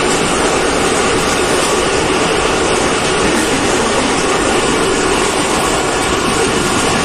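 Passenger train coach running at speed: a steady, even rolling noise of wheels on rails mixed with rushing air, heard at an open coach window.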